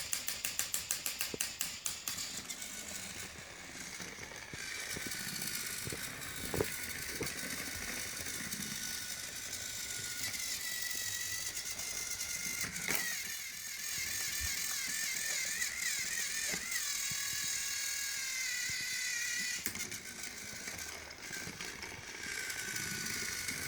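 Small electric motor of a toy train running with a steady, wavering whine, with quick regular clicking, about five a second, over the first two seconds.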